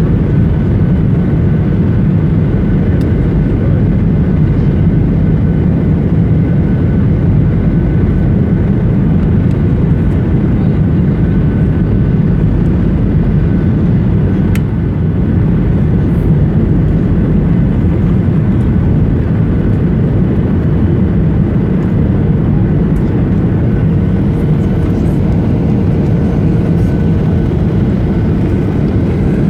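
Steady roar inside the cabin of a Boeing 737-800 from its CFM56 engines and the airflow, low-pitched and even, with a faint steady whine on top.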